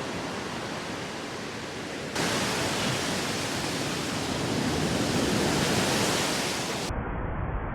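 Surf washing and breaking on a sandy beach, a steady rushing wash of waves. It jumps abruptly louder and brighter about two seconds in, then turns duller with a stronger low rumble near the end.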